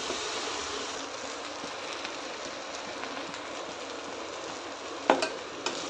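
Egg fried rice sizzling in a wok-style pan on high flame, a steady hiss, with two sharp clicks about five seconds in.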